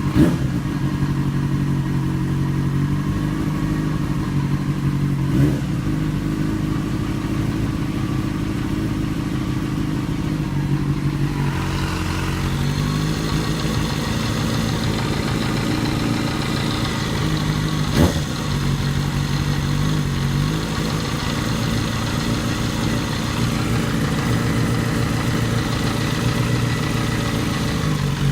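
2008 Yamaha FZ6's inline-four engine running, idling and then held at a raised speed of around 2,000 rpm for about twelve seconds in the middle before dropping back. The owner hears a strange ticking noise at that held speed after the bike has sat off for a few hours, and does not know its cause. Two sharp knocks stand out, one about five seconds in and one about eighteen seconds in.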